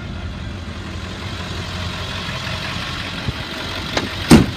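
2000 Ford F-450's 7.3 L Power Stroke V8 turbodiesel idling steadily, with a small click about four seconds in and a sharp clunk just after.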